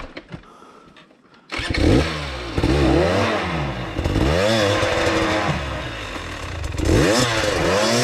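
Enduro dirt bike engine that comes in abruptly about a second and a half in, then is revved up and down repeatedly, its pitch rising and falling several times.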